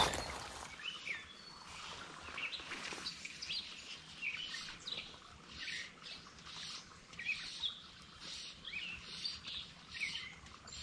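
Songbirds chirping, a run of short high chirps about two a second, over a faint background hiss. A brief rush of noise fades out in the first second.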